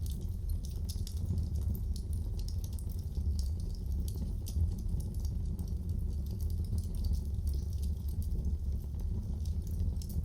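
Wood fire crackling in a fireplace: a steady low rumble of burning with many small, sharp crackles and pops.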